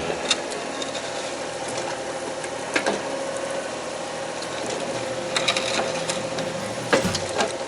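Machinery running with a steady whine, broken by several sharp metallic clanks, the strongest about three seconds in and again near the end.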